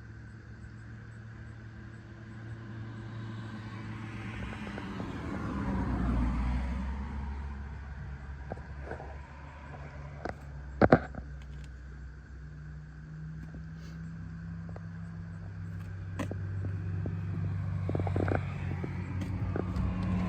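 A vehicle engine running steadily with a low hum, growing louder and a little higher near the end. About five seconds in, a louder swell falls in pitch, and around eleven seconds there is a sharp click.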